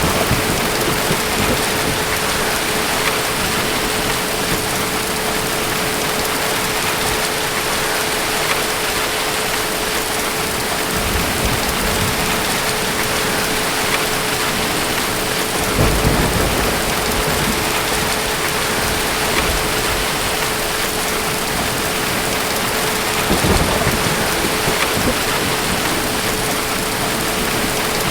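Steady rain with low rolls of distant thunder swelling up a few times, the strongest a little past the middle.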